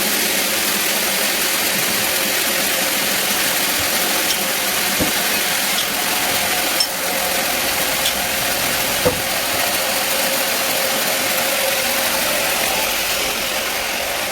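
Band sawmill running steadily: a constant hiss with a steady hum, and a few light knocks in the middle.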